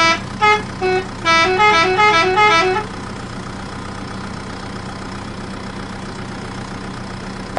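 A horn plays a tune of short, quick toots that step up and down in pitch, stopping about three seconds in. A steady low hum follows.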